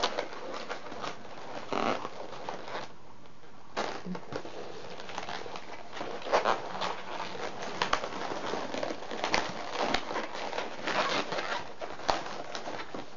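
Inflated latex 260 modelling balloons rubbing and squeaking against each other as they are twisted and pressed into place, in irregular short crinkly squeaks, with a brief lull about three seconds in.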